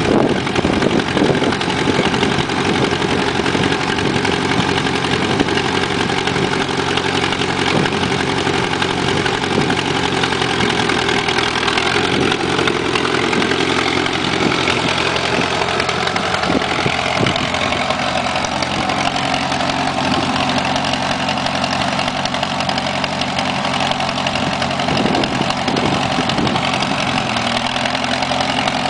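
Small garden tractor engine running steadily, its note shifting slightly about halfway through.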